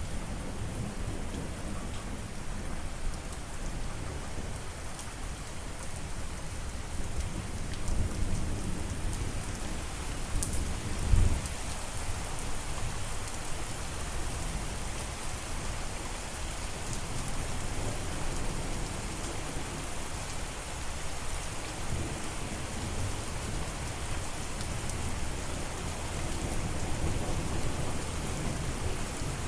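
Steady rain falling, with low rumbles of thunder underneath; one louder rumble about eleven seconds in.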